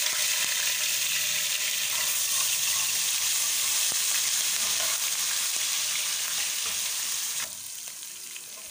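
Ginger-garlic paste and chopped green chillies frying hard in hot oil, a loud steady sizzle as they are stirred with a metal slotted spoon. The sizzle drops abruptly to a softer level about seven and a half seconds in.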